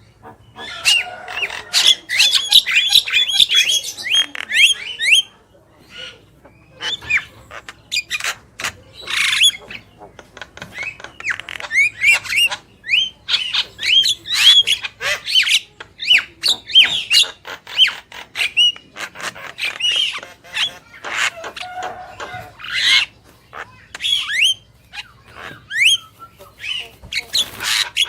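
Javan myna calling: a rapid, busy string of harsh squawks, clicks and short whistled notes, broken by brief lulls.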